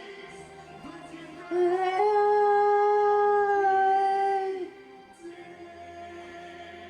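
Pop-ballad duet vocals over soft backing music, with one long held sung note from about a second and a half in until nearly five seconds, much louder than the accompaniment around it.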